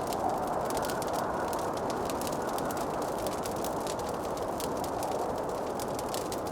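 Wood fire crackling: many small, sharp pops and snaps scattered irregularly over a soft, steady rushing.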